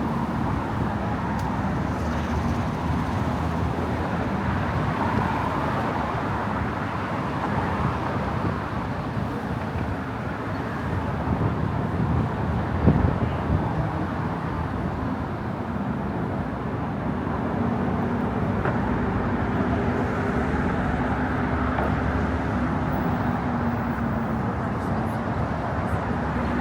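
Steady road traffic noise from the bridge's car lanes, with voices of passers-by mixed in. There is a brief thump about halfway through.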